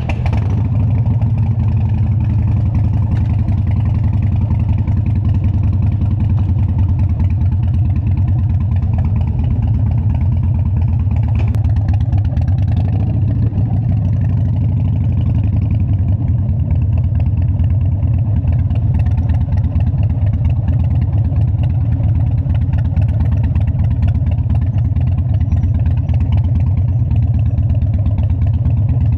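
Harley-Davidson Dyna's air-cooled V-twin engine running steadily at a low, even idle with a loud, pulsing exhaust note.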